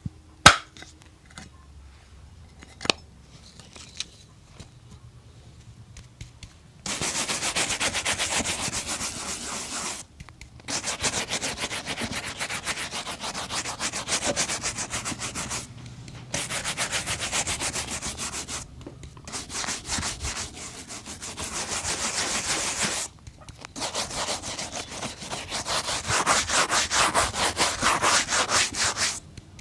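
Shoe being brushed with rapid back-and-forth scrubbing strokes, in bouts of several seconds with short pauses between. Before the brushing starts, a quieter stretch with two sharp clicks.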